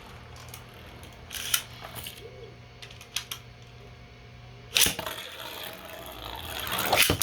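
Small plastic clicks and clatter of Beyblade tops and launcher parts being handled, with a louder scraping burst about five seconds in, over a steady low hum.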